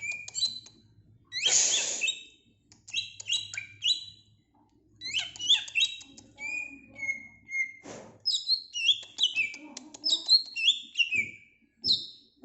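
Green leafbird (cucak ijo) singing a fast, varied chatter of chirps and quick falling whistles, with a harsh rasping call about a second and a half in.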